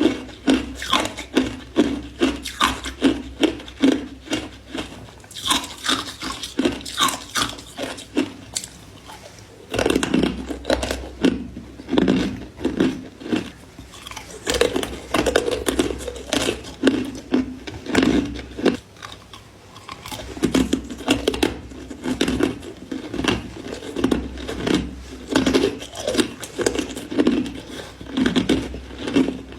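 Ice being bitten and chewed close to the microphone: a steady run of crisp crunches, about two a second, with brief pauses twice.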